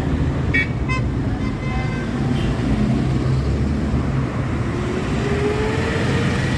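Steady road traffic rumble, with a few brief high chirps about a second in and an engine note rising slowly in the second half.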